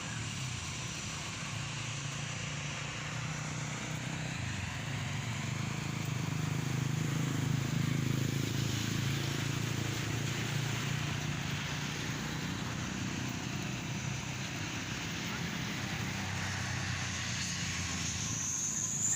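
Road traffic noise with an airplane flying low overhead, its engine sound swelling to a peak about seven to nine seconds in and then easing off.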